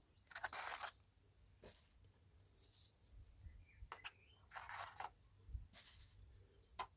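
Faint birds chirping, with several short, soft rustling or scuffing noises.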